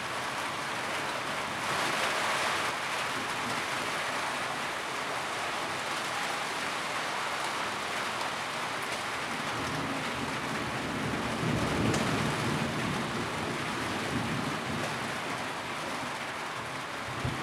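Steady heavy rain drumming on a tin roof, a dense even hiss. It briefly grows brighter about two seconds in, and a low rumble swells and fades about two thirds of the way through.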